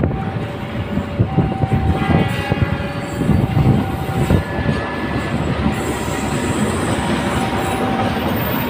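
A train passing close by: a loud, steady rumble with its wheels clattering over the rail joints, and thin squealing tones from the wheels on the rails running through it.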